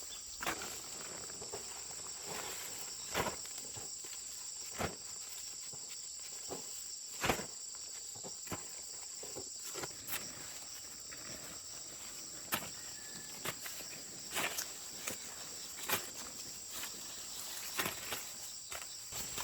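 A steady high-pitched chorus of insects, with irregular short knocks, likely footsteps, every second or so.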